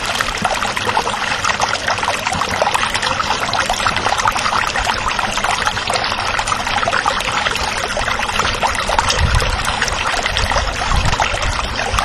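Water running and trickling, a steady dense splashing.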